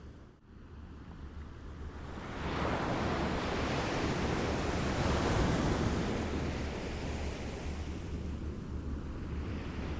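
Small waves lapping: the wash falls away to a brief lull just after the start, then builds again from about two and a half seconds in and runs on.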